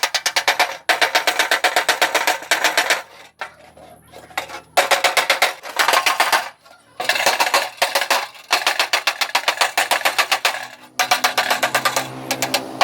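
Rapid repeated knocking, many strikes a second, coming in bursts of one to three seconds with short pauses between.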